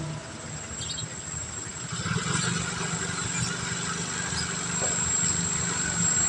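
Low steady rumble of a train approaching a railway level crossing, swelling about two seconds in and growing louder.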